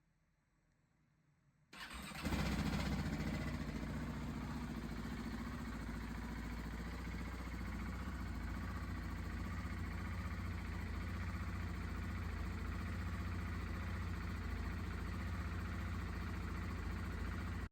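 KTM 690 SMC R's single-cylinder engine starting on its electric starter about two seconds in and catching at once. It runs a little louder as it catches, then settles into a steady idle, and the sound cuts off suddenly at the end.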